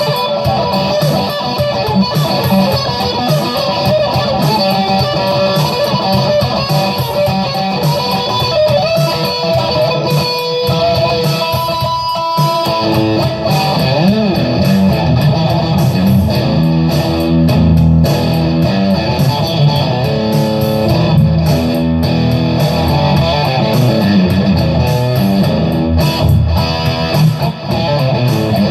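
Electric guitar played loud, improvising lead lines and scale runs; a high note is held and breaks off about twelve seconds in, after which lower, heavier notes take over.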